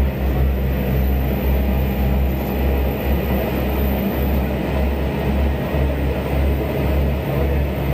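6050-series electric train running at speed through a tunnel, heard from inside the carriage: a loud, steady rumble of wheels and running gear.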